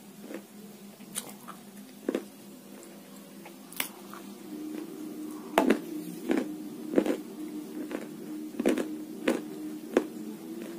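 Close-miked chewing and crunching of a crunchy snack, with about ten sharp crunches that come closer together and louder in the second half. A faint steady hum runs underneath.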